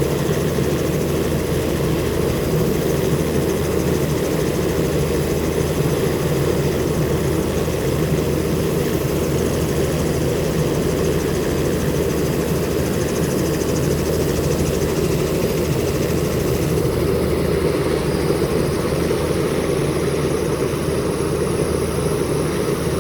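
Helicopter turbine and rotor running, a loud, steady, low drone with no change in pitch or level.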